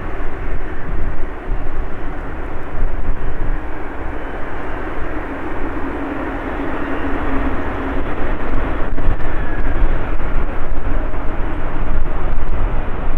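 Loud, continuous jet engine noise from a Lufthansa Airbus A340-300, a four-engine airliner with CFM56 turbofans, arriving to land.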